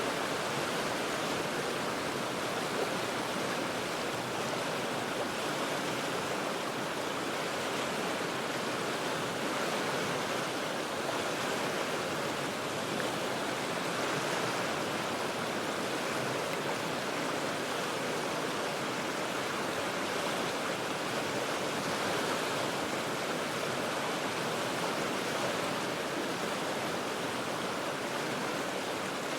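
The Cheat River rushing over rocks, heard from high above: a steady, even roar of moving water.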